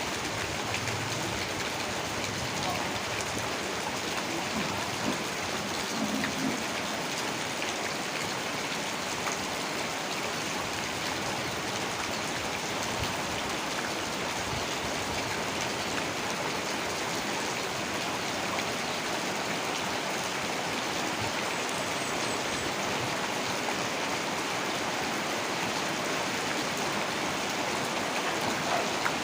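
Heavy rain falling steadily, an even, dense hiss of raindrops that holds without change.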